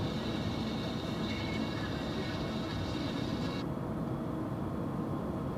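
Steady road and engine noise inside a moving car, a low rumble with a hiss on top. The hiss drops out suddenly about three and a half seconds in while the rumble carries on.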